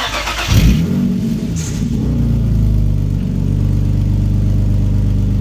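Infiniti G35's 3.5-litre V6 exhaust, straight through resonated test pipes with the muffler deleted. The engine catches with a brief loud flare about half a second in, then settles into a steady, deep idle.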